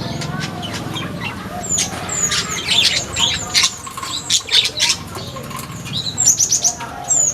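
Flamboyan birds in an aviary chirping: many short, high, falling calls, coming in quick clusters, with a steady low hum underneath.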